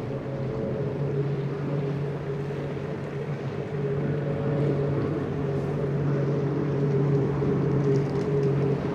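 Boat engine running steadily with a constant-pitch hum, getting a little louder about four seconds in.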